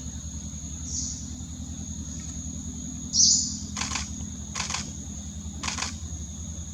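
A low motor drone running steadily, with a steady high-pitched whine over it. There is a louder high chirp about three seconds in and three short sharp chirps in the second half.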